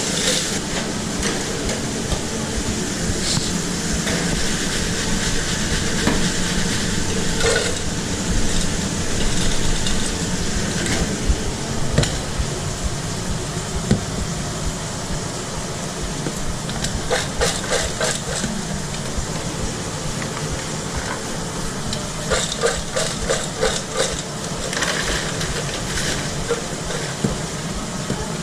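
Burgers and fries frying with a steady sizzle, mixed with the clinks and scrapes of cooking utensils. About two-thirds of the way through come two short runs of quick, evenly spaced taps.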